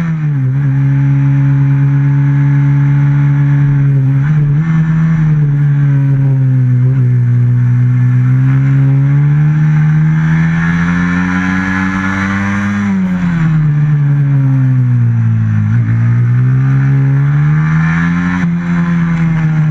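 Racing motorcycle's stock FXR150 engine heard on board at racing speed, its revs rising and falling through the lap. There are short dips early on, then a long climb in pitch, a drop from about thirteen to sixteen seconds in, and another climb near the end.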